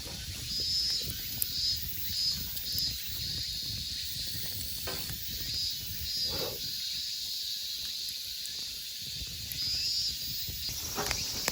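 Wood campfire burning with a steady hiss, insects chirping in a high pulsing band behind it, and one soft knock about six and a half seconds in.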